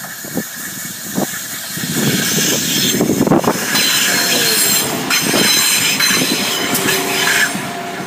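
A train running past over the level crossing, its wheels clicking over the rail joints. The wheel flanges squeal high-pitched against the rails. The noise builds about two seconds in and eases off near the end.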